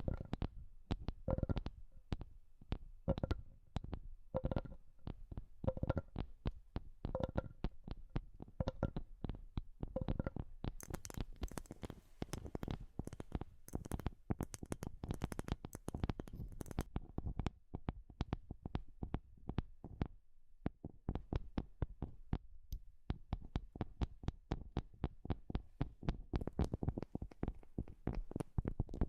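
Rapid, irregular tapping on wood. For the first ten seconds a ringing, hollow knock returns about every second and a half among the quicker taps. From about eleven to seventeen seconds the taps turn sharper and brighter.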